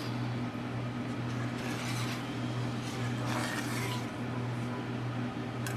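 A spoon stirring a thickening cheese sauce in a pan, with a few soft scraping strokes, over a steady low hum.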